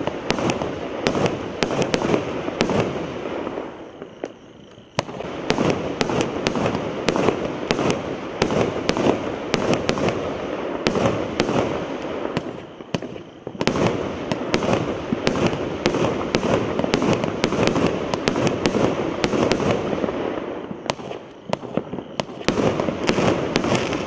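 Rublevsky EC300 firework cake firing continuously: rapid bangs and crackling in quick succession, with brief lulls about four, thirteen and twenty-one seconds in.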